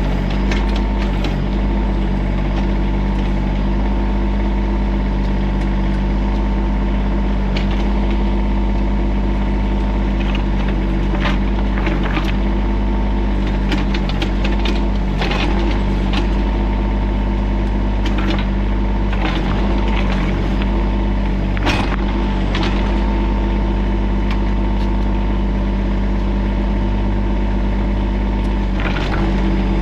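Diesel engine of a TYM compact tractor-loader-backhoe running steadily, with scattered clanks and knocks from the machine, the sharpest about two thirds of the way through.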